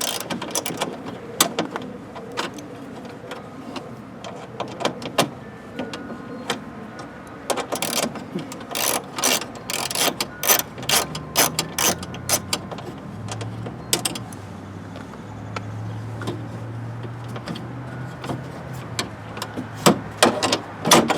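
Irregular clicking and clatter of a hand tool with a Torx (star) bit working the door handle's screws loose, with quick runs of clicks near the middle and a low hum partway through.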